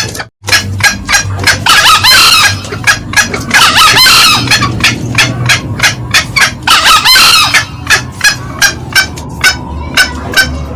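Green junglefowl calling: a steady run of short sharp cackles, about three a second, with longer crowing calls about two, four and seven seconds in. There is a brief gap in the sound just after the start.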